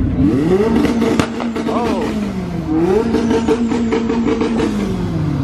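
Car engine revving up and held at a fixed pitch on a two-step rev limiter, twice, with a short dip between, then falling away near the end.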